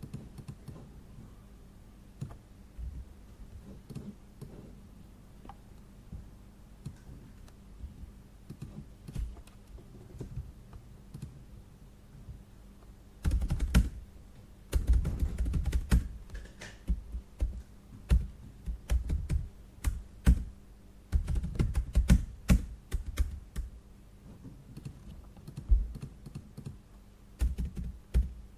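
Typing on a computer keyboard: scattered light key taps at first, then rapid runs of louder keystrokes from about halfway, with short pauses between runs.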